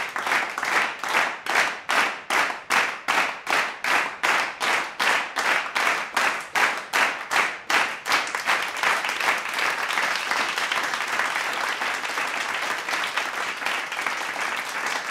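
Spectators clapping in unison, about three claps a second. About eight seconds in, the rhythm gives way to steady, even applause.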